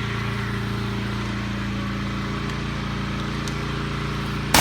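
Engine of a high-pressure washer running steadily at a constant speed. Near the end comes a brief loud burst of noise.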